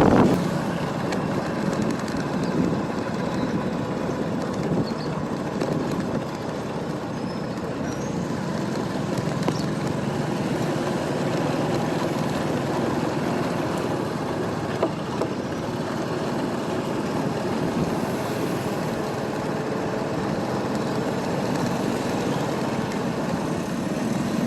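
Motorbike running steadily on the road, a continuous engine and road noise with no distinct events.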